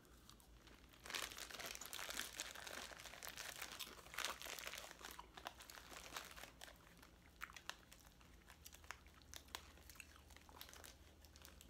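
Popcorn being chewed: faint, crackly crunching, busiest in the first few seconds and thinning out toward the end.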